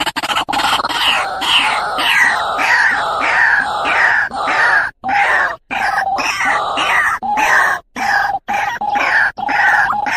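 White-breasted waterhen calls: a loud, unbroken run of repeated sweeping notes, about two a second, cut by several brief silent gaps. It is the ruak-ruak call used to lure male waterhens.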